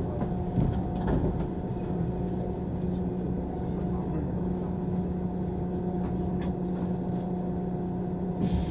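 Running noise heard aboard a JR East 185 series electric train: a steady hum over low rumble, with a few short clicks. A hiss rises suddenly near the end.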